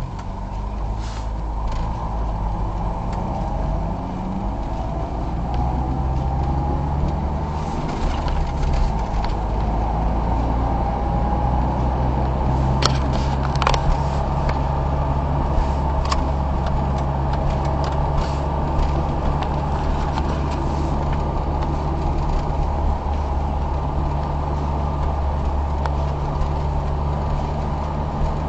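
Car engine and road noise while driving: the engine pitch rises as the car picks up speed in the first few seconds, then holds steady. There are a couple of sharp clicks about halfway through.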